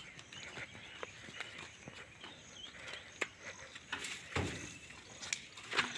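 Birds chirping, with scattered knocks and a louder clatter a little over four seconds in and again near the end.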